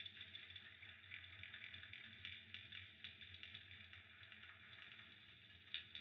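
Faint crackling of a fireplace fire: many small irregular pops and ticks over a low steady rumble, with a couple of sharper pops near the end.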